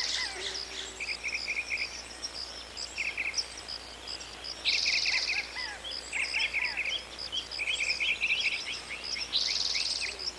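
Several small birds chirping and calling, with short notes repeated in quick groups and a louder rapid trill about five seconds in and again near the end.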